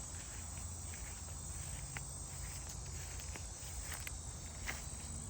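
Footsteps of a person walking in flip-flops, a few scattered steps, over a steady high trilling of insects.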